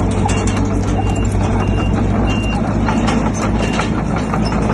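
Heavy diesel earthmoving machinery running steadily, with a reversing alarm sounding short, repeated high beeps.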